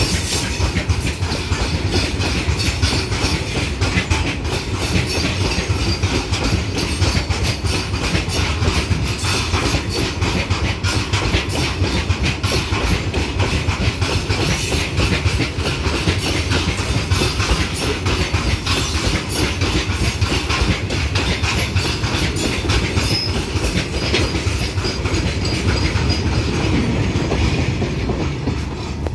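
Freight wagons of a long goods train rolling past close by, their steel wheels clattering steadily over the rail joints.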